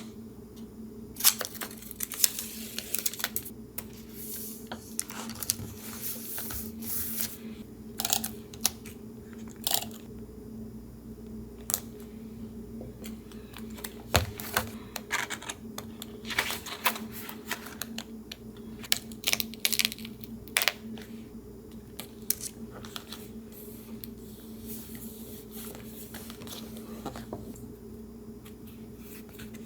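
Paper being handled for collage: irregular crinkles, taps and short tearing sounds at close range, over a steady low hum.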